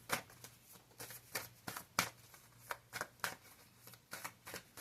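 Tarot cards being shuffled by hand: a string of light, irregular snaps and flicks, about a dozen over a few seconds.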